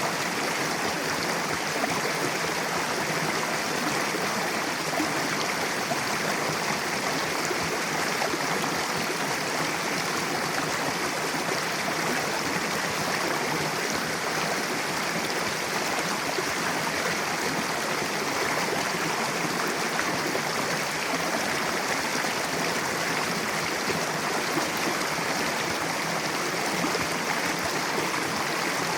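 Mountain river flowing over rocks: a steady rush of water.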